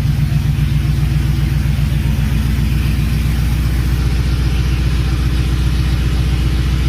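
Ford F-150's 5.0 Coyote V8, fitted with catless long-tube headers and straight-piped with no muffler, running at a steady idle with a loud exhaust note. The sound cuts off suddenly at the end.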